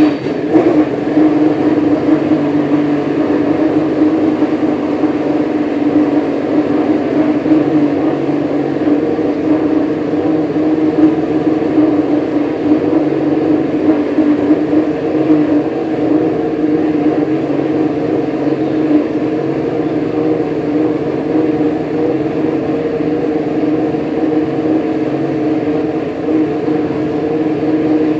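Honda Formula One racing engine running steadily just after start-up, a loud, even drone that holds one pitch.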